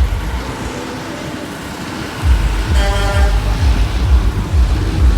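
Large truck engine rumbling past, louder from about two seconds in, with a short horn blast about three seconds in.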